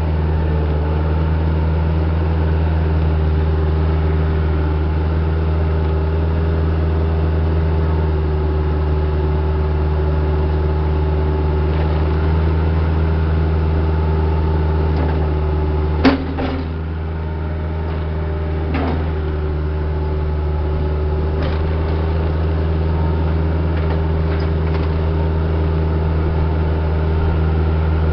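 Diesel engine of a piece of heavy equipment running steadily under a low, even hum with a faint whine. About halfway through there is a single sharp metallic bang, and the engine note sags briefly before recovering. A lighter knock follows a few seconds later, with a few faint clicks near the end.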